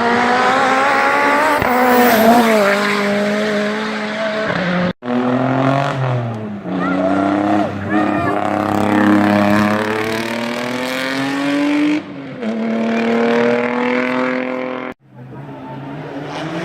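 Racing car engines at full throttle, revving hard and changing up through the gears, with the engine note climbing and dropping at each shift. The sound is three separate passes, each one breaking off suddenly.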